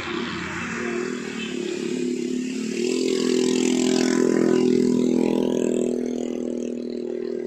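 Vehicle engine running with a steady note, growing louder from about three seconds in and easing off again near the end, as if passing close by.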